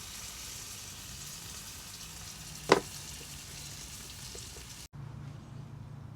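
Food sizzling in a frying pan, with a single sharp knock a little past halfway. Near the end the sizzle cuts off abruptly, leaving a low steady hum.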